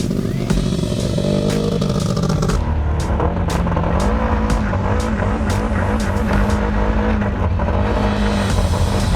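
Off-road race car engine running under load while being driven, its revs rising and falling.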